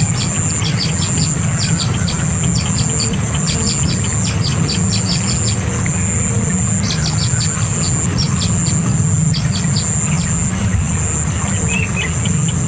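Bird chirping in quick clusters of short high notes, with a few curved call notes near the end, over a steady low rumble and a thin, steady high-pitched whine.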